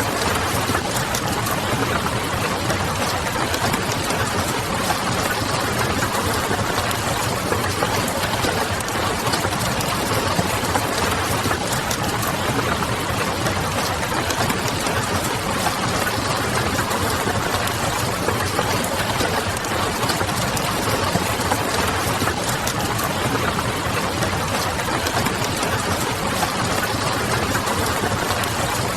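Steady rain ambience with the fine crackle of a wood fire and a low, constant hum underneath, all running evenly without change.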